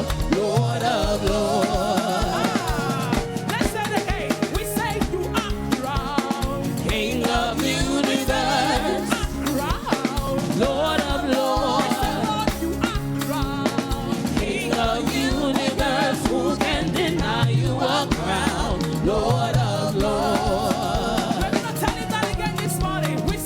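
Live gospel praise-and-worship music: a church band playing a steady beat, with voices singing over it.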